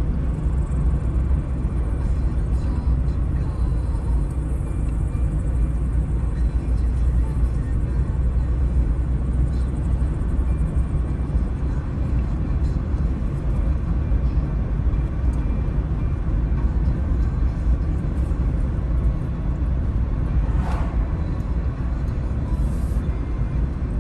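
A car driving along a road: a steady low rumble of engine and tyres. Two brief sharp clicks come near the end.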